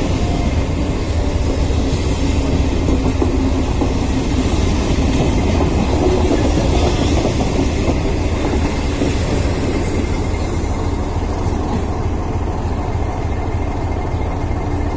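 Trains running on rails: a loud, steady rumble of wheels on track, heard from aboard a moving train while an electric multiple unit passes on the next line.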